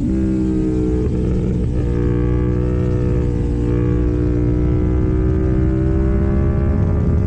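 KTM Duke 790 parallel-twin engine running hard through an Arrow full-system exhaust under way. The note breaks briefly twice in the first two seconds, sinks slowly in pitch, then climbs again near the end.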